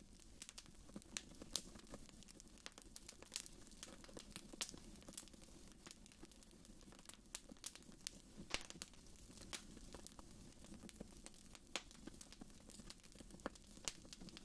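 Wood fire crackling in a fireplace: faint, irregular sharp snaps and pops over a low, steady rumble.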